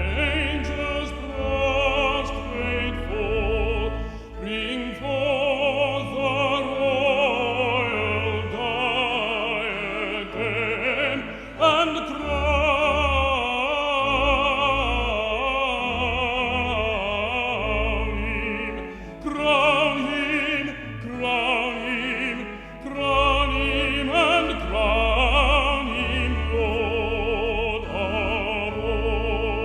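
Male baritone singing a hymn with vibrato, accompanied by a brass ensemble of trumpets, trombones, French horn and low brass bass.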